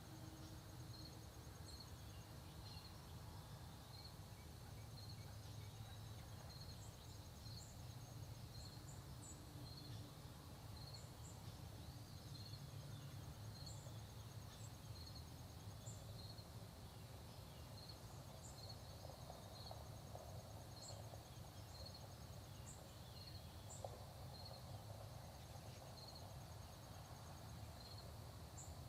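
Faint early-morning countryside ambience: an insect chirping steadily a little more than once a second, a higher buzzy insect trill coming and going, and a few short, high bird chips, over a low steady hum.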